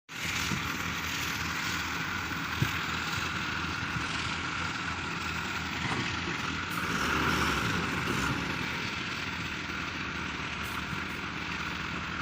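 Heavy vehicle engine running steadily, rising a little about seven seconds in, with one brief knock near the start.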